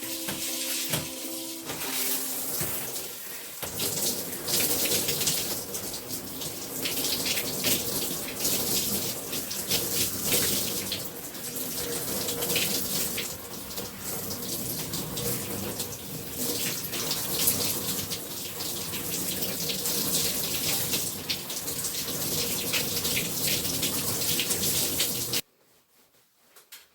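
Water running from a tap with uneven splashing as hair is rinsed under it; the flow stops abruptly near the end.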